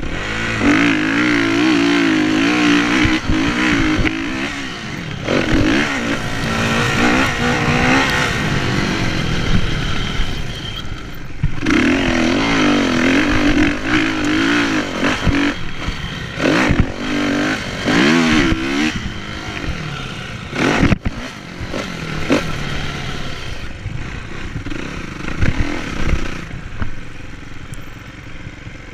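Kawasaki KX450F's single-cylinder four-stroke engine racing, its revs rising and falling rapidly through throttle blips and shifts, with sharp knocks and clatter from the bike. After about 19 seconds the engine runs lower and steadier, growing quieter near the end.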